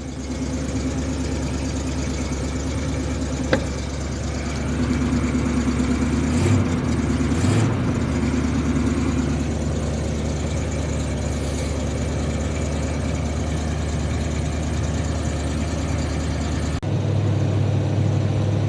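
Carbureted 350 V8 with a Quadrajet four-barrel running steadily at a high cold-start idle, about 1800 RPM, because its choke is sticking. A single sharp click comes about three and a half seconds in, and the engine's sound changes abruptly near the end.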